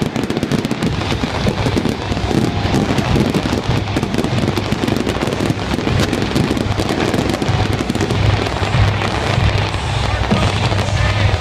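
Fireworks crackling in a dense, rapid string of small bangs, over music with a steady low bass.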